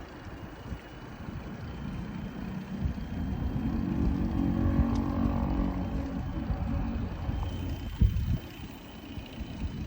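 A motor vehicle passing close by, its engine swelling and fading over a steady low wind rumble on the microphone, followed by one sharp thump about eight seconds in.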